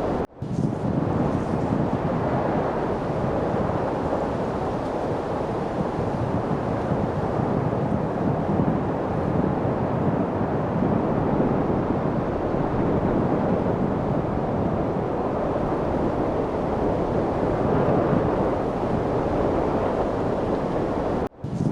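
Steady wind noise, a dense rushing with no distinct events, cutting out for an instant just after the start and again shortly before the end.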